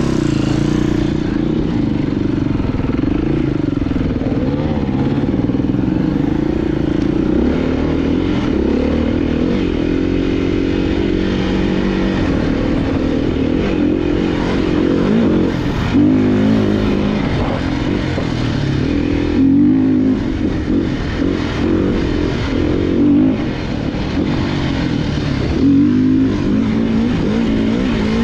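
Off-road motorcycle engine running under load while riding, its pitch rising and falling as the throttle opens and closes, with a few sharper throttle blips in the second half.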